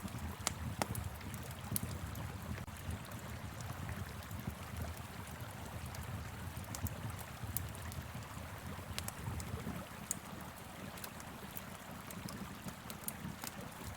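Steady rush of a flowing river with a wood fire crackling over it in scattered, irregular sharp pops.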